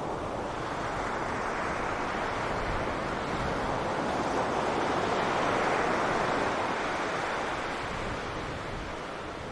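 Sea surf washing onto a beach: the rush of water swells up over several seconds, peaks about halfway through, then slowly recedes.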